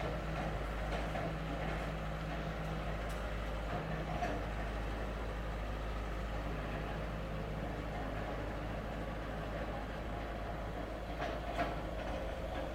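Diesel engine of an excavator running steadily as it works.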